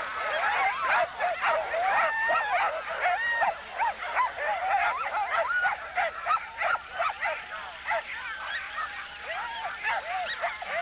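Many sled dogs barking, yipping and whining at once, a dense overlapping chorus of short excited calls.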